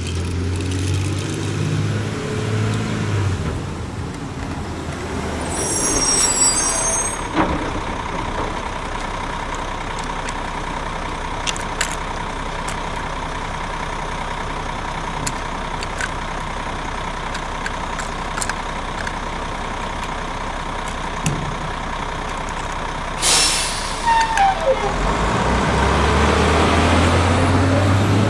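Heavy truck sound: a low engine rumble, a steady whine through the middle, a short loud hiss near the end, then the engine louder again.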